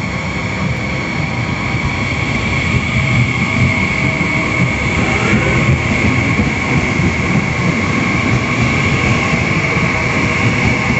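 Frecciarossa 1000 electric high-speed train moving past along the platform: a steady, loud rolling rumble with a steady high whine over it.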